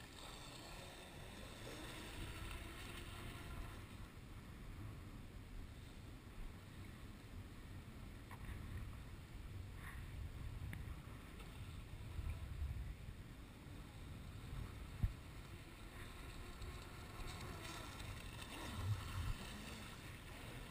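Electric motor of a Kyosho Hurricane RC boat running on a 3-cell LiPo, its faint whine rising and falling in pitch as the boat passes, clearest near the start and near the end, with wind rumbling on the microphone. A single sharp knock about fifteen seconds in.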